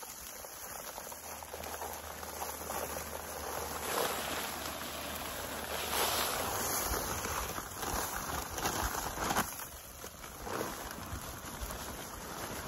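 Dry bagged concrete mix pouring into a fence-post hole, a gritty rushing that swells in surges several times.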